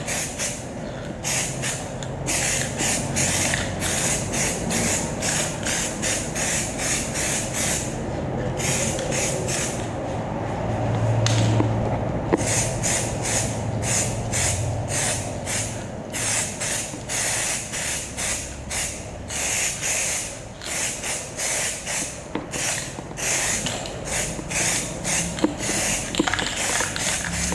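2K aerosol spray can of paint hissing in short repeated bursts, about two to three a second, with a couple of brief pauses midway. These are light dusting passes that build the coat up gradually.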